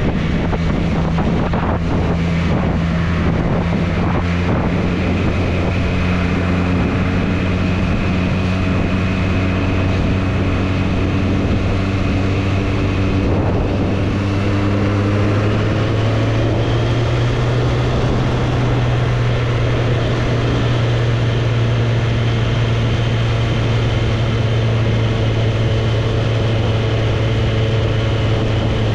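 Triumph Street Triple's inline three-cylinder engine running steadily under way, with wind noise on the microphone. The engine note rises a little about halfway through and then holds at the higher pitch.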